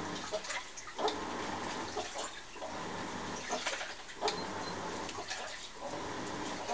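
Washing machine in its wash cycle: water and laundry sloshing in the turning drum in repeated surges about every second or two.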